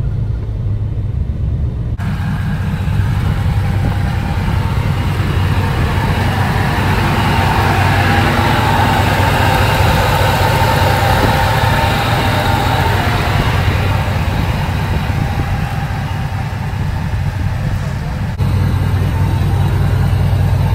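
Lifted 2007 Chevrolet Silverado being driven, heard from inside the cab: a steady low engine rumble with road and tyre noise that swells in the middle. The sound changes abruptly about two seconds in and again near the end.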